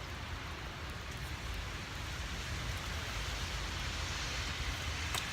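Steady hiss of sleet and ice pellets falling in a winter storm, over a fluctuating low rumble.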